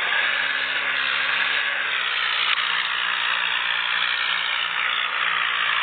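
Tractor and the thresher it drives, running steadily: a constant mechanical whir and rushing noise over a low engine tone.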